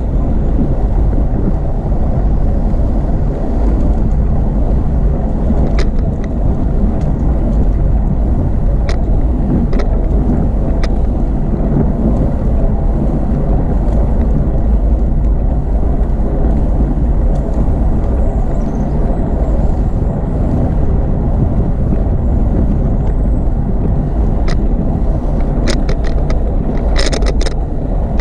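Steady low wind rumble on the microphone of a bicycle ride, with a few sharp clicks and a short cluster of rattling ticks near the end.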